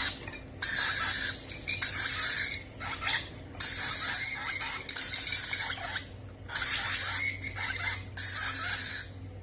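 Baby parrots giving raspy, squawking food-begging calls, about six calls each lasting roughly a second, in quick succession.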